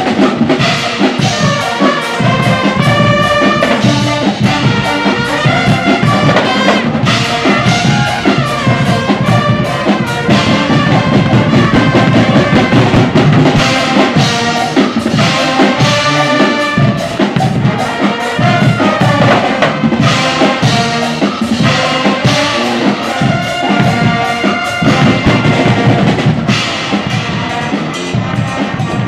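Guggenmusik carnival band playing: loud brass, with trumpets and trombones carrying the tune over drums beating a steady rhythm.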